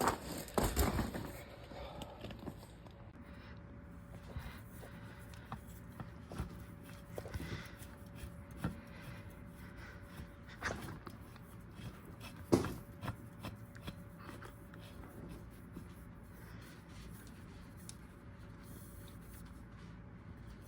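Scattered clicks, knocks and rattles of hands handling tools and parts, the loudest knock about halfway through, over a faint steady hum.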